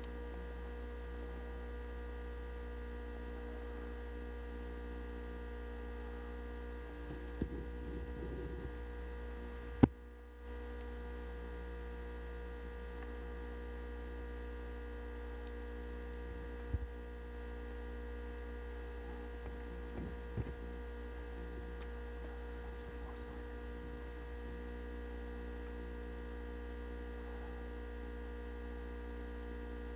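Steady electrical hum with a faint whine of several steady tones. A few small clicks come through it, and one sharp click about ten seconds in is the loudest sound.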